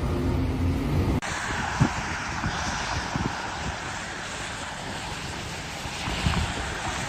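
A vehicle engine running with a steady low hum, cut off abruptly about a second in, followed by a steady rushing noise with a few faint low thumps.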